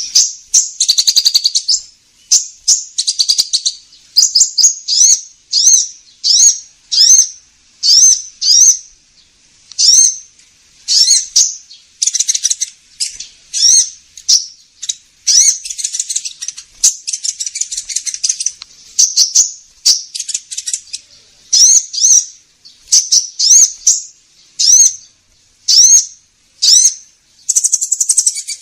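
Sunbird ('kolibri ninja') song played as a bird-lure recording: rapid, high, thin chirps and trills repeated about once a second, with denser chattering runs in between. It starts abruptly.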